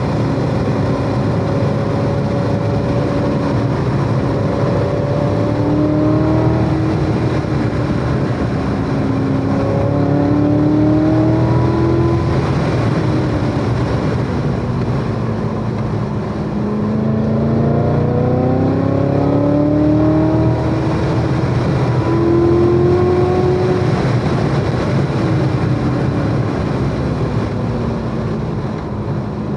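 Chevrolet Corvette C7 Z06's supercharged 6.2-litre V8 lapping a race track, its engine note rising under acceleration and sinking as it eases off, several times over, above steady tyre and wind noise.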